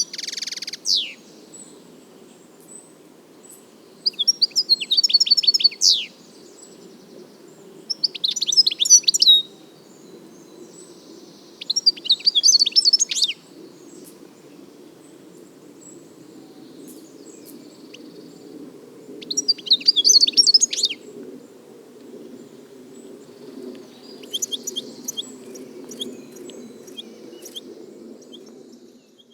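European goldfinch singing: about six bursts of fast, high, liquid twittering, each one to two seconds long, with pauses of a few seconds between them. A faint steady low hum runs underneath.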